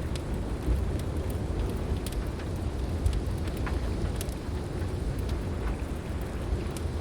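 Heavy rain falling steadily under a low rumble of thunder, with a wood fire crackling in scattered sharp pops.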